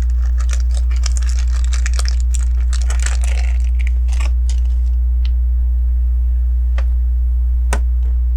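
Small plastic LEGO pieces rattling and clicking as they are handled and sorted for about four seconds, then a few single sharp clicks as pieces are pressed on. A loud steady low electrical hum runs underneath throughout.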